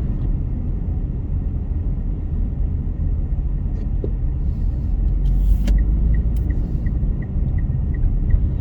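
Steady low rumble of a car driving, heard from inside the cabin. About two-thirds of the way in, an even ticking starts, about three ticks a second, like a turn signal indicator.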